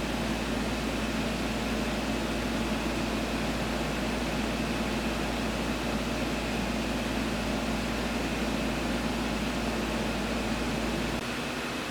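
Steady mechanical hum and hiss, like a fan or other machine running; a low rumble underneath drops out near the end.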